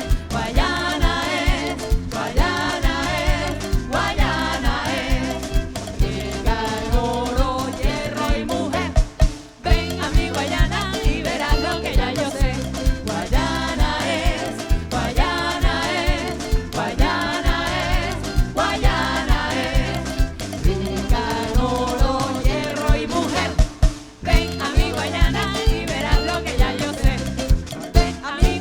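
Live band playing with a voice singing over a steady percussion beat of sharp hits about twice a second and a repeating bass line. The music drops out briefly twice.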